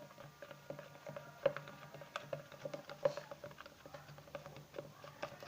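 Glue and acrylic paint being stirred together in a container to make slime: irregular light clicks and taps of the stirring utensil against the container.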